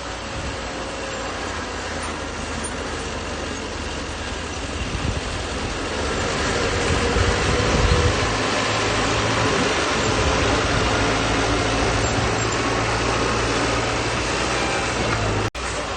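Crawler bulldozer's diesel engine running steadily as it works, getting louder about six seconds in.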